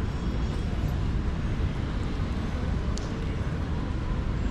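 City street ambience: a steady low rumble of traffic with the hum of people's voices in the background, and a short high click about three seconds in.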